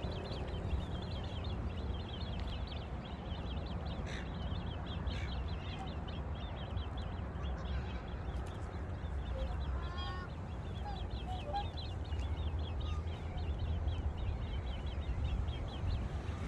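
Lakeside birds calling, black swans among them: a dense chatter of quick high chirps throughout, with a few short, higher curved calls around ten seconds in, over a steady low rumble.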